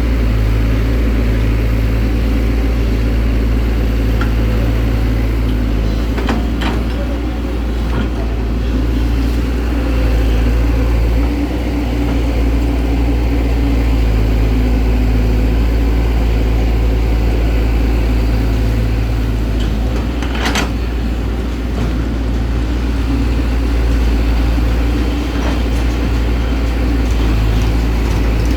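Heavy diesel engine running steadily at an even, low pitch, with a few brief sharp knocks over it.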